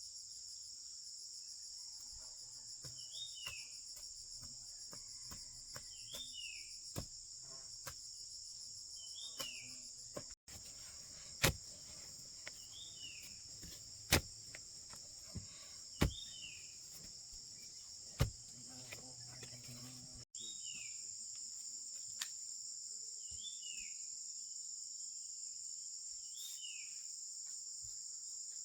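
Insects chirring steadily in woodland, with a short falling call repeating about every three seconds. A few sharp knocks, the loudest sounds, come in the middle.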